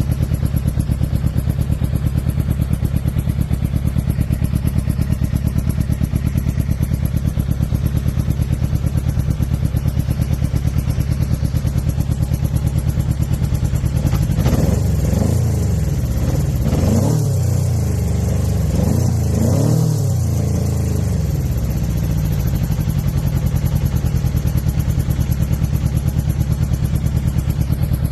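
2006 Suzuki GSX-R600's inline four-cylinder engine idling with an even pulse, blipped several times about halfway through, each rev rising and falling back, before settling to idle again. The owner asks whether the sound means a misfire or a dead cylinder.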